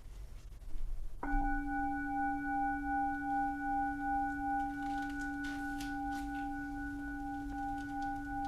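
A singing bowl is struck about a second in and rings on, a low hum with several higher tones above it, swelling and fading in a slow pulse as it sustains.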